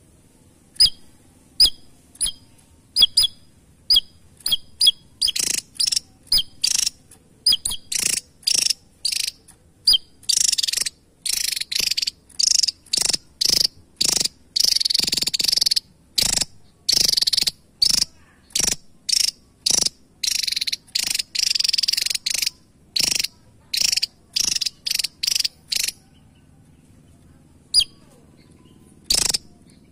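Javan tesia calling: sharp, high chip notes about two a second, quickening after a few seconds into a fast, harsh, chattering run that stops a few seconds before the end. A single loud click comes near the end.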